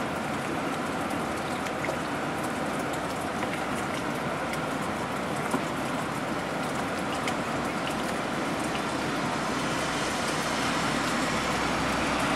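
Steady rushing water noise with a few faint ticks, growing slightly louder near the end.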